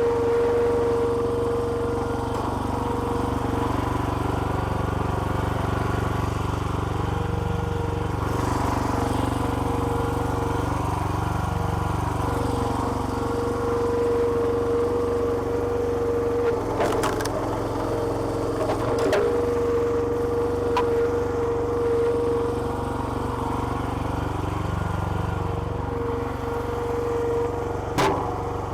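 Small petrol engine running steadily, driving a homemade hydraulic log splitter, with a steady whine that drops out now and then. A few sharp cracks come through, two about two-thirds of the way in and one near the end.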